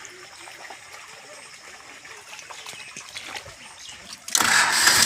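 A Powertrac Euro 42 Plus tractor's diesel engine comes in suddenly and loudly about four seconds in, running with a fast low throb. Before that there is only quiet background with a few faint clicks.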